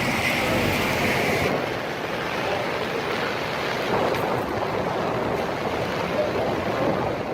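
Tornado winds rushing past, a steady loud noise; the high hiss drops off about a second and a half in.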